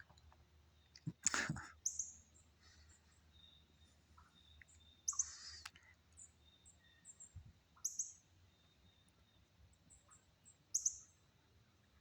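Wild birds chirping in short, high calls every couple of seconds, with a brief loud rustle or knock about a second in.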